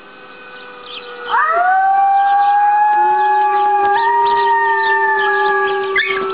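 Pomeranian puppy howling: one long howl that starts about a second in, rises at its onset and then holds steady, with a small step up in pitch partway through.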